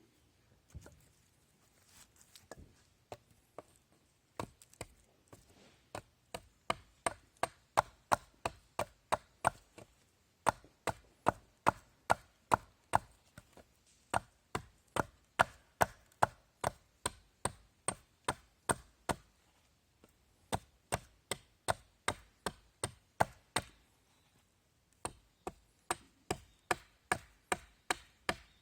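Blade chopping, sharp even strokes about two to three a second in long runs with short breaks between them.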